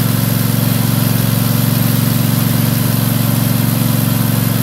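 Cub Cadet XT2 LX46 riding mower's twin-cylinder engine running steadily at an even speed, freshly tuned up with new spark plugs, oil and filters.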